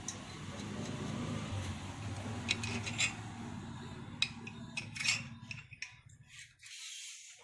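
A wrench on the cylinder head nuts of a Yamaha Ray scooter engine, making a scattering of short metallic clicks as the nuts are tightened. A steady low hum runs underneath and stops near the end.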